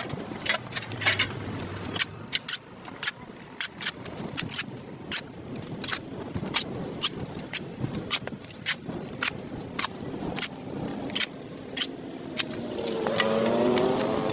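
A hand tool scraping against the pavement in short, sharp strokes, roughly one to two a second at an uneven pace, as dirt is scraped off a sidewalk. Near the end a passing motor vehicle's engine rises in pitch.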